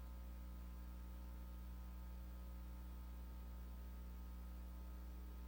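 Steady low electrical hum with a few faint higher overtones, unchanging throughout; no other sound.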